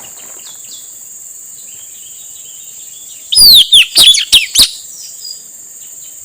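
Male blue-rumped parrot (nuri tanau) giving a quick series of about five loud, shrill, falling calls about three seconds in. Underneath runs a steady high insect drone with faint small chirps.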